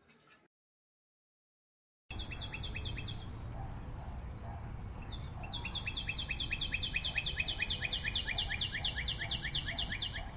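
Silence for about two seconds, then a steady low outdoor rumble with a bird calling in fast runs of short, falling chirps, about five a second: a brief run, a pause, then a longer run.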